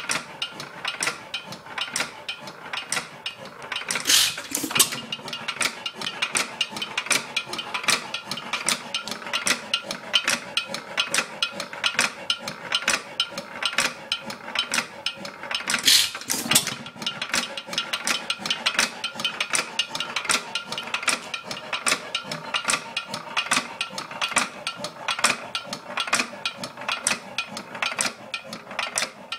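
Early Bates and Edmonds Bull Dog 2-1/2 HP hit-and-miss engine running, a steady run of rapid sharp clicks, with louder bursts about four seconds in and again around sixteen seconds in.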